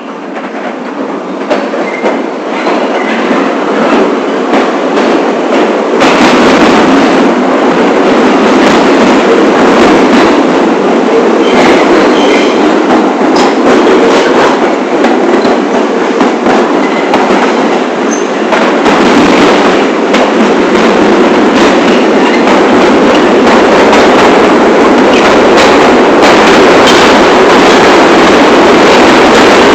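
New York City Subway 1 train running along the track, growing louder over the first six seconds and then steady, with scattered clicks from the wheels over the rails.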